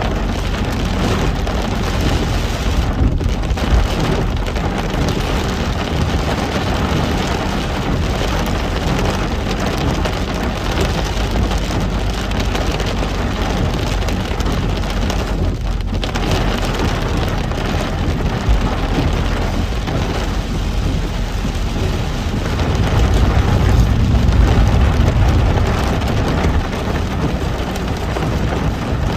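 Heavy rain falling steadily on a moving car, with the low rumble of the car driving underneath, which swells for a few seconds about three quarters of the way through.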